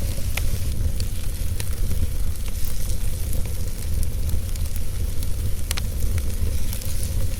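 Wood fire burning in a fireplace, a steady hiss and low rumble with scattered sharp crackles and pops of the burning logs.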